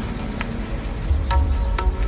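Ambient relaxation mix: soft, low drum beats with a few short bird chirps over a steady wind-like hiss.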